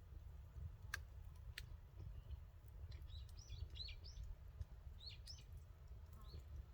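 Faint chirping of a small bird: short, quick, falling notes in clusters from about three seconds in, over a steady low rumble. Two sharp snaps come about a second in.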